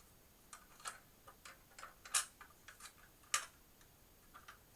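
Irregular light clicks and taps of a drive-caddy piece being handled and fitted into the front of a computer case, with sharper clicks about two seconds in, about three and a half seconds in and at the end.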